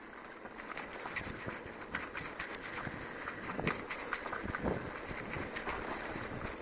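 Bicycle riding over a rough dirt trail: tyres crunching over the ground with irregular rattles and knocks from the bike.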